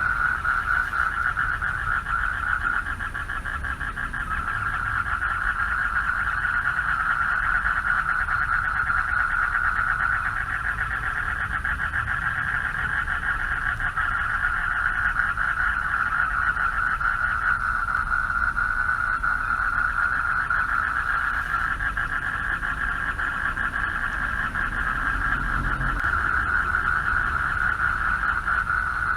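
Chorus of male frogs calling for mates from a pond: a continuous dense wall of rapid pulsed trills held at one pitch, with a low rumble underneath.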